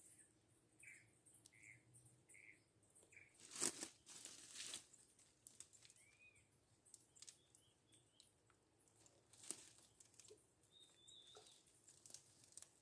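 Quiet woodland ambience: a small bird chirps several short notes, about four in a row at the start and more scattered later. A couple of sharp crackles or rustles stand out, the loudest about four seconds in.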